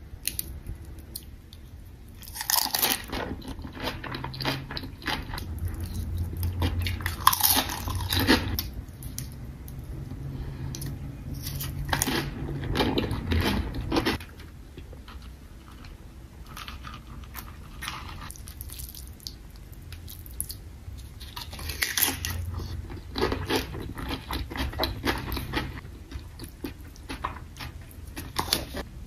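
A person eating close to the microphone: crunchy bites and chewing in several bursts of a couple of seconds each, with quieter chewing between.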